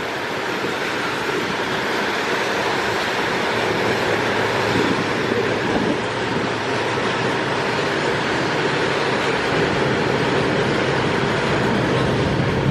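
Loaded BCNA covered goods wagons rolling past close by: a steady rumble and clatter of steel wheels on the rails.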